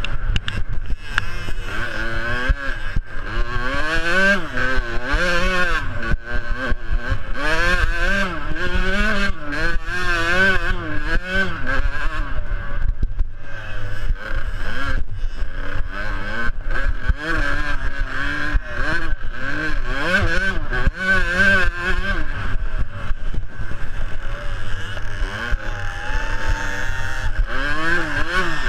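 Small two-stroke youth motocross bikes (KTM 50 and KTM 65) racing, their engines revving up and falling away over and over.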